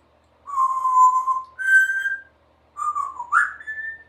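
Congo African grey parrot whistling three clear notes: a steady one, a higher steady one, then one that dips and slides up. It is mimicking a whistle for calling the dogs.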